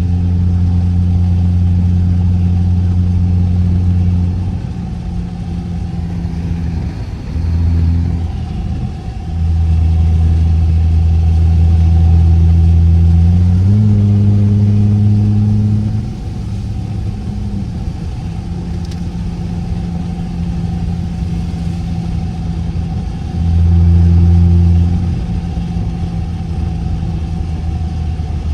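Straight-piped car exhaust droning while driving, heard from inside the cabin. It swells loud under throttle and falls back when lifting off several times, with the pitch stepping up briefly about halfway through.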